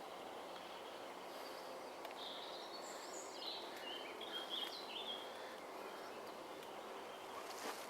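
Small birds chirping and singing in short phrases, mostly a few seconds in, over a steady outdoor background hiss.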